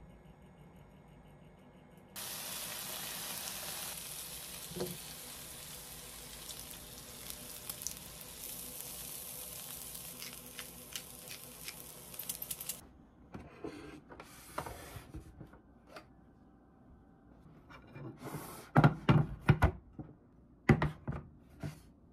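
Onion and zucchini slices sizzling in an oiled frying pan, starting suddenly about two seconds in and cutting off about halfway through. Near the end come several sharp knocks and clinks of dishes.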